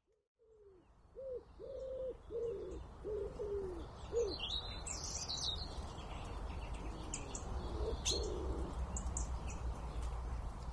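Birds calling: a run of about seven low, falling notes, roughly two a second, followed by a few short high chirps, over a steady low rumble.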